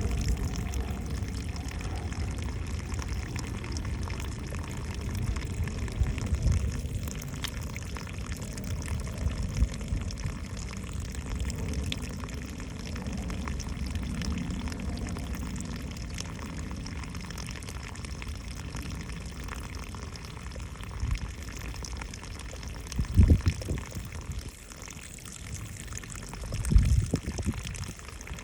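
Water running and pouring steadily, with two short, louder low sounds near the end.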